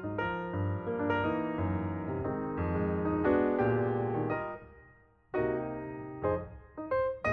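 Piano music: a run of sustained notes and chords, fading almost to silence about five seconds in, then starting again.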